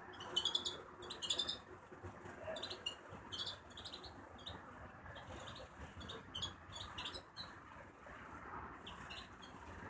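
A small bird chirping: a quick run of short, high chirps in the first second and a half, then softer chirps scattered through the rest.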